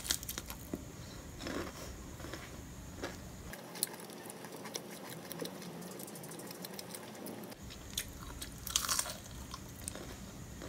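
Crisp crunching of breadcrumb-coated fried shrimp tempura being bitten and chewed close to the microphone, with a louder burst of crunches about nine seconds in.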